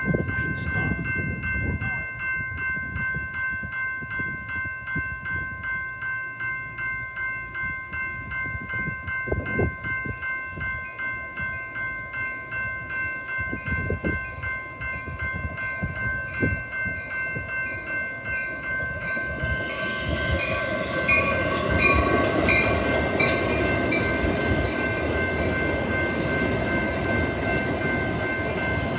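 Railroad crossing bell ringing in a steady, regular beat, with a train pulling in and its wheels and running gear growing louder about two-thirds of the way through.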